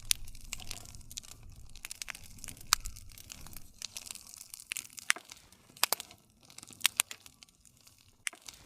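Wood campfire crackling: irregular sharp snaps and pops over a soft low rumble and hiss, with several louder pops spaced a second or more apart.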